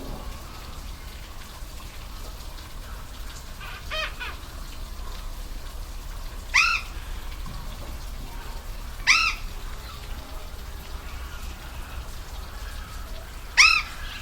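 Waterfall's steady rush of water. Over it, a short animal call that rises and falls comes three times, with a fainter one before them.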